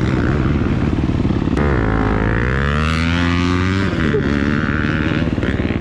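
Motocross bike engine running hard, its pitch climbing as it revs out from about a second and a half in, then dropping back about four seconds in.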